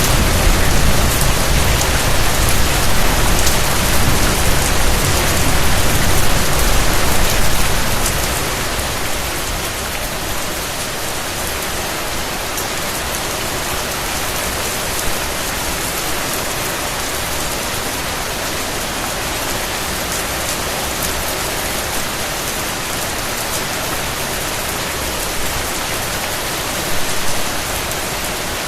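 Steady rain falling, an even hiss of many drops. A low rumble of distant thunder dies away about eight seconds in.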